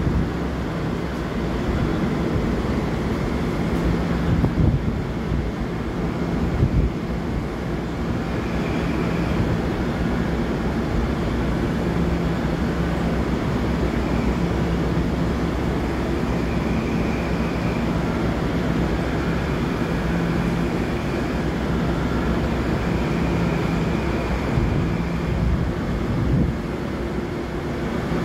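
Steady low rumble and hum of a diesel freight train moving slowly in a rail yard, with a faint high tone coming and going and a few low knocks in the first seven seconds.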